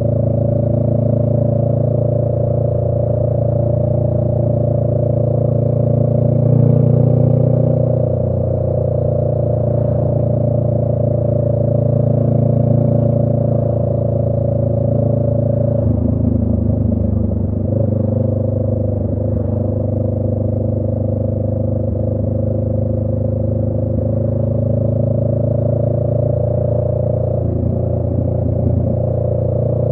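A 2018 Honda Rebel 500's parallel-twin engine runs steadily under way through an aftermarket Radiant Cycles Shorty GP exhaust. Its pitch dips and wavers about halfway through, then settles back.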